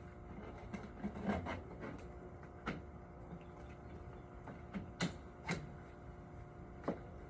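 Irregular drops of rainwater tapping on a hard surface, about eight in a few seconds, over a steady low hum.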